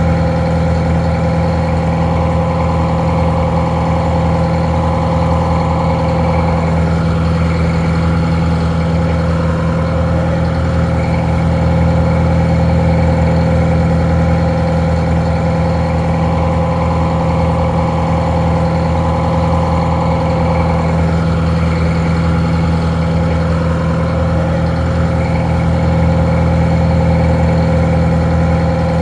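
Detroit Diesel 4-71 two-stroke diesel engine idling steadily, somewhat muffled.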